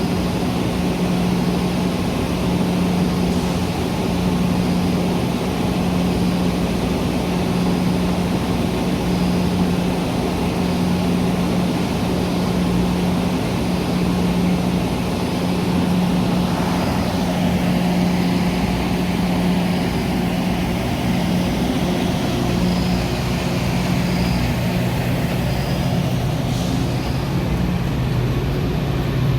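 Metra commuter train running beside the platform, a steady engine hum whose pitch steps down about three-quarters of the way through.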